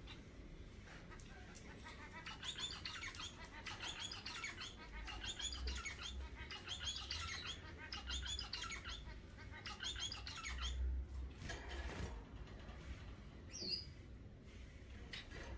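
Pet birds chirping in quick runs of short, high notes for most of the stretch, then one short high call near the end.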